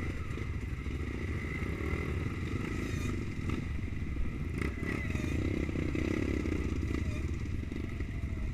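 Trail motorcycle engine running steadily as the bike is ridden, with a few clattering knocks.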